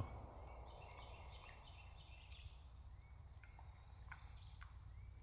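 Near silence, with faint, short bird chirps in the background and a few faint clicks about four seconds in.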